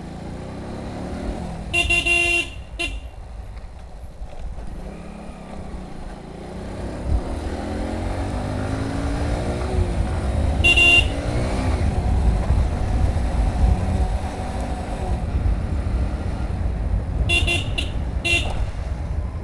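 Hero Passion Pro motorcycle's single-cylinder engine running on the road and picking up speed, with wind noise on the microphone. A horn beeps twice about two seconds in, once in the middle, and in a few quick toots near the end.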